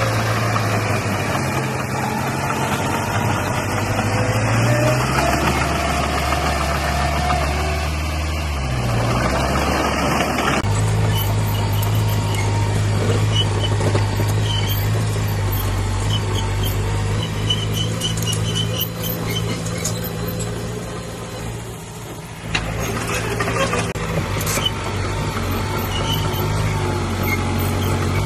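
Heavy diesel engines of earthmoving machinery running. The engine note shifts up and down in the first ten seconds, then holds steady. The sound changes abruptly twice.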